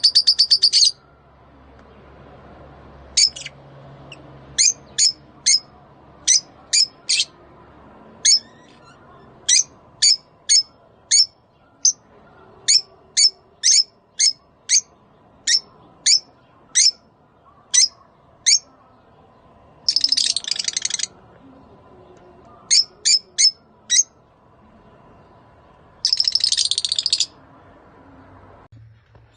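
Lovebirds calling: sharp, high chirps given singly and in short runs, about one to three a second, broken by rapid chattering bursts at the start, about twenty seconds in and near the end.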